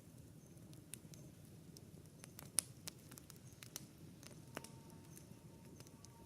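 Wood campfire crackling: a steady low hiss of burning with scattered sharp pops, the loudest about two and a half seconds in.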